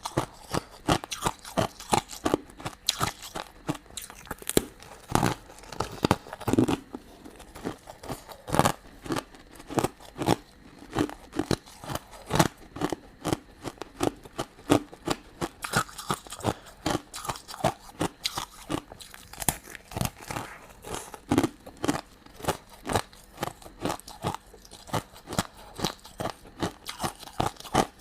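Close-miked chewing and crunching of sweets, with many sharp crunches and wet mouth clicks a second.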